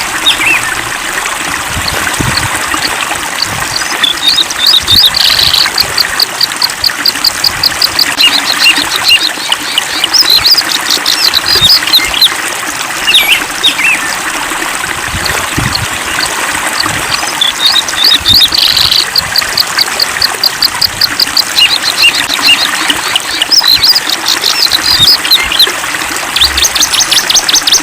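Songbirds singing over a steadily trickling stream. Several times the song breaks into runs of quick, evenly repeated high notes, mixed with scattered short whistled phrases.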